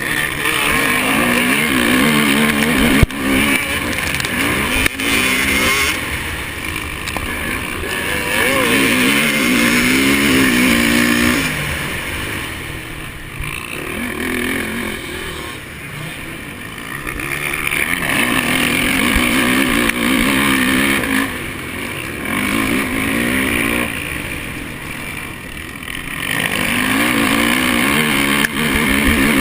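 Honda 450 motocross bike's single-cylinder four-stroke engine being ridden hard around the track: it revs up in repeated surges, then drops in pitch as the throttle is chopped, several times over. Two sharp knocks stand out about 3 and 5 seconds in.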